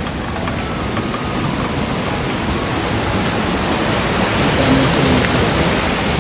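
Water rushing steadily through the feed pipe of a ghatta, a traditional Nepali water mill, whose flow turns the millstone; the rush grows slightly louder about five seconds in.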